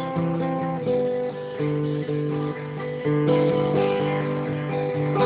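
Acoustic guitar music with no singing: a run of plucked notes and chords that change every half second or so.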